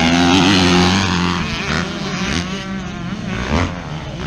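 Van engine running steadily with road noise, a wavering rise and fall in pitch around the middle.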